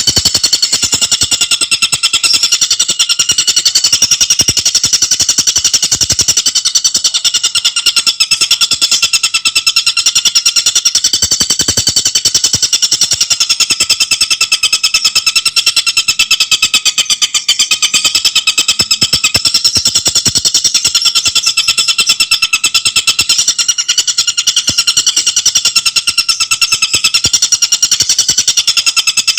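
Tengkek buto bird singing a loud, unbroken, very fast rattling trill of high, clear notes, kept up without a pause.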